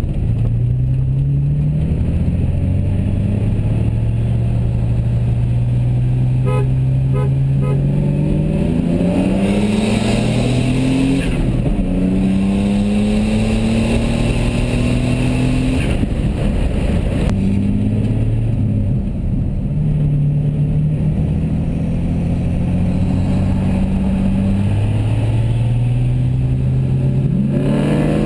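Vehicle engine heard through its intake and exhaust while driving: the engine tone holds fairly steady, steps between levels, and rises in pitch under acceleration about nine seconds in and again near the end.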